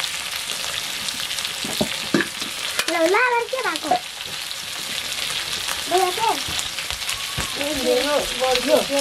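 Chicken pieces frying in a steel wok over a wood fire, with a steady sizzle. A metal ladle clicks and scrapes against a stone pot as it is stirred.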